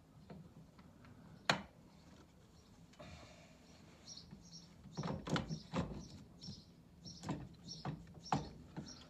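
Hand-tool work on a stairlift carriage while the gearbox is being unbolted: one sharp click about a second and a half in, then an irregular run of clicks and knocks from about halfway through.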